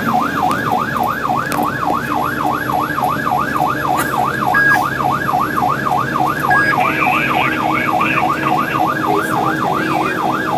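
Fire truck's electronic siren in yelp mode: a fast rising-and-falling wail, about three to four sweeps a second. It sounds over the truck running underneath.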